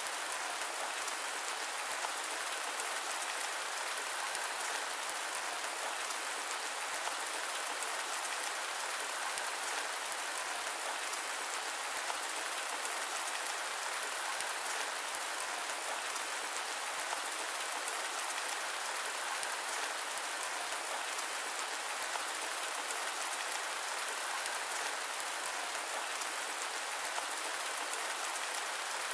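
Steady, even rain with no thunder, a dense hiss of drops that holds without change.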